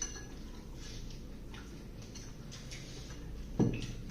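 Eating sounds up close: soft, irregular mouth clicks and smacks of chewing, with one louder knock about three and a half seconds in.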